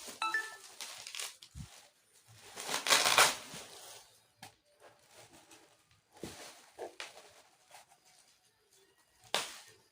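Rustling and handling noises in several separate bursts, the largest about three seconds in, with a short electronic beep right at the start.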